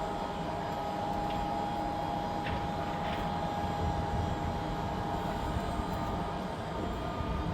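Wind buffeting the microphone with an uneven low rumble, under a steady mid-pitched hum and a few faint clicks.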